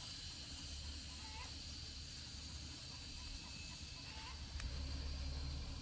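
Outdoor rural ambience: a steady high-pitched insect drone with a few faint chirps, over a low rumble that grows louder near the end.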